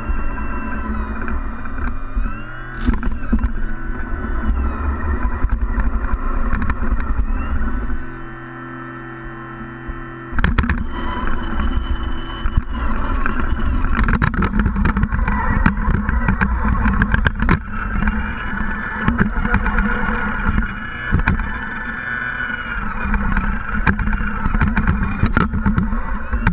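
Engine sound of scale RC trucks, its pitch rising and falling several times as they are throttled, with a quieter lull about a third of the way in. Many sharp clicks and knocks run through the second half.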